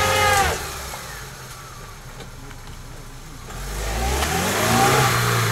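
Lada Niva's four-cylinder engine revving hard as the car pushes through deep mud in low range; the revs drop off about a second in, then climb again and swell for the last couple of seconds.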